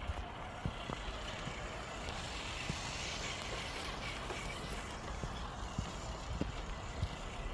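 Road traffic noise from a nearby highway, a steady rush that swells around the middle and eases off again, like a vehicle passing. A few soft low thumps are scattered through it.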